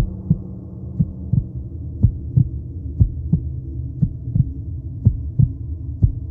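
Heartbeat sound effect, a low double thump about once a second, over a steady low drone.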